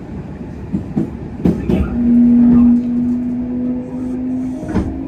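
Kintetsu Osaka Line train running, heard on board: steady low rumble with a few sharp clicks of the wheels, and the whine of the Hitachi GTO-VVVF inverter as a steady tone that comes in about two seconds in and steps up slightly near the end.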